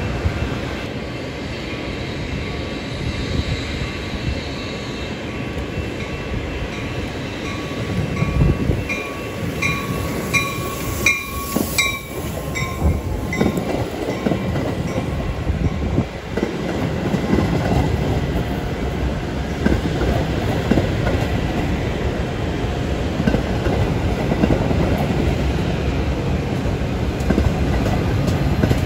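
Metra bilevel commuter train running past close by, its wheels clattering and rumbling on the rails with a thin squeal in the first half. The heavier rumble of the diesel locomotive at the rear builds near the end.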